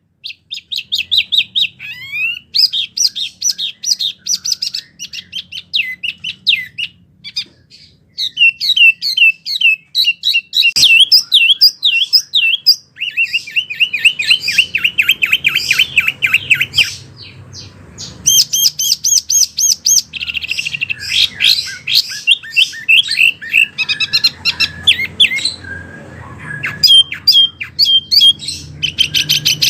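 Wambi songbird singing a fast, varied string of high chirps and repeated whistled notes, broken by quick rattling trills, as a tutor song for training caged magpie robins.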